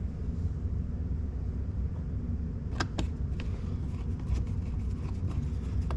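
Small plastic and metal clicks and rattles of trim parts and fasteners being handled and fitted, two sharper clicks about three seconds in and then a run of lighter ones, over a steady low hum.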